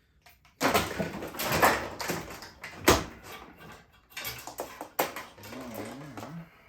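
Front-load washer being shifted and tipped over: metal scraping and clattering, a heavy knock about three seconds in, then a few more knocks.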